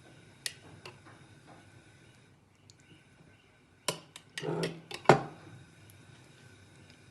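Kitchen utensils knocking and clinking against dishes: a few light clicks, then a burst of clattering about four seconds in, the loudest knock just after five seconds.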